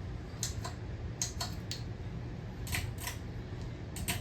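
A series of about ten sharp, irregularly spaced clicks over a steady low hum.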